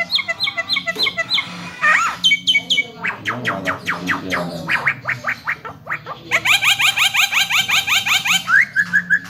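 Javan myna singing: a rapid, varied string of repeated whistles and chirps that mostly sweep downward, with a faster run of chirps about two-thirds through and a few rising whistles near the end.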